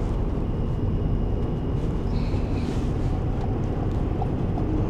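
Steady low rumble of road and engine noise heard inside a moving van's cabin.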